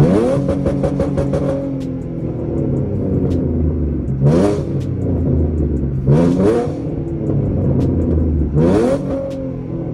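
V6 Mustang engine through a catted X-pipe exhaust with no mufflers or resonators, blipped sharply four times: each rev rises quickly and drops straight back, as on a rev-matched downshift. The first blip is followed by a rapid string of crackles lasting about a second and a half, and the engine runs low and steady between the revs.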